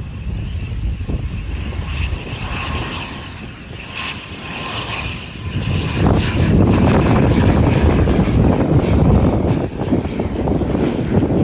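ATR 72-600 airliner's twin Pratt & Whitney PW127 turboprop engines running, a steady high whine over a low propeller rumble that grows clearly louder about halfway through as the aircraft comes closer.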